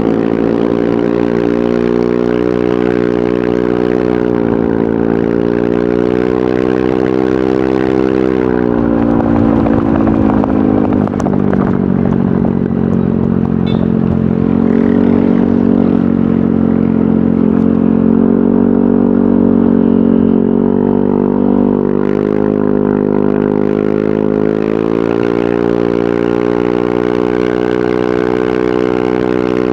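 Yamaha NMAX 155 scooter's single-cylinder engine running through an aftermarket VMAX Onyx muffler, a loud, steady exhaust note. About a third of the way in the engine pitch drops and the note turns briefly rough and crackly, then it holds lower until it climbs back up near the end.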